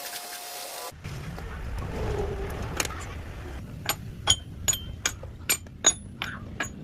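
A run of about eight sharp metallic taps or clinks, each with a brief high ring, coming irregularly over about three seconds over a low rumble.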